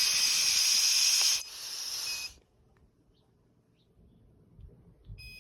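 A loud, steady hiss of gas or spray released under pressure, which eases about a second and a half in and stops a little after two seconds.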